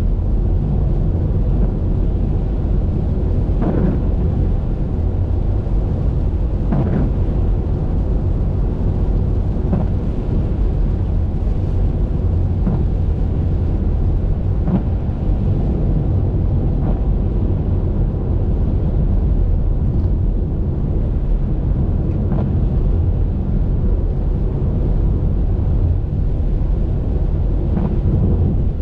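Steady low rumble of a car driving along a wet highway, with tyre and wind noise. A few faint brief swishes come every few seconds.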